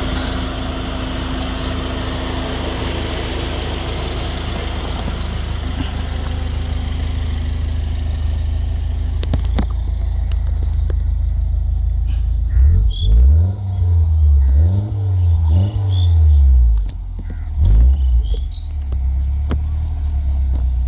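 Mini Cooper S engine and twin exhaust idling steadily, then revved in about five quick blips, each rising and falling in pitch, before settling back to idle.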